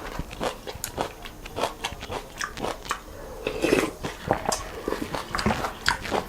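A person eating noodles and soup close to the microphone: irregular wet chewing and mouth clicks, thickening into a louder stretch about three and a half seconds in.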